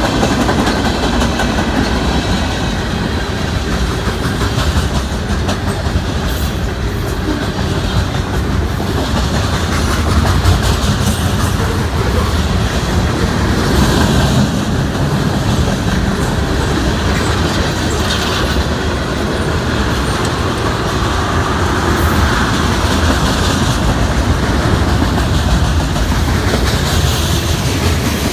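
Cars of a mixed freight train rolling past: a steady rumble of wheels on rail, with clickety-clack as the wheels cross rail joints.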